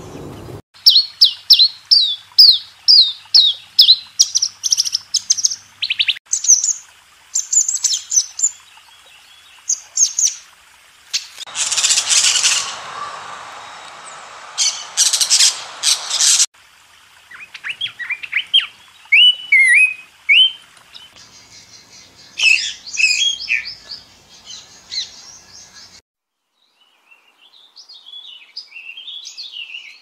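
Songbirds chirping and singing in a string of short clips cut one after another: rapid runs of quick down-slurred chirps, a harsh noisy burst about twelve seconds in, more chirp series, and a softer warble near the end.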